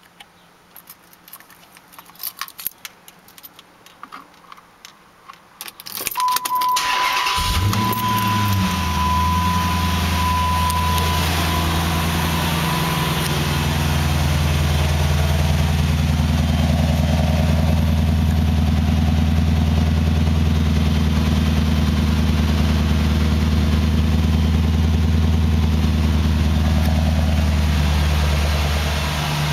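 Keys jangling, then a Dodge car's engine is cranked and starts about six seconds in, with a steady beep sounding for a few seconds, and settles into a steady, deep idle.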